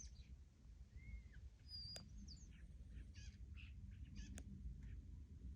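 Faint chirps and short whistled calls from several small songbirds, with a couple of sharp clicks in between.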